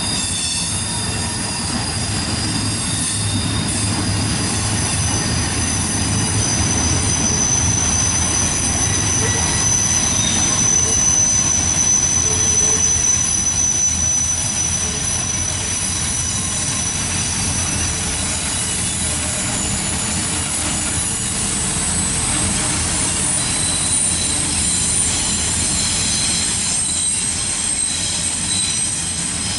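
Freight train cars rolling past with a steady rumble of wheels on rail, and sustained high-pitched wheel squeal. The squeal comes from the wheel flanges grinding against the rail on a sharp curve.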